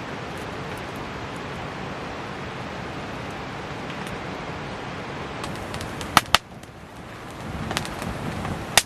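Steady heavy rain hiss, which falls away suddenly about six seconds in, followed by a few sharp, loud pops from a crackling wood campfire.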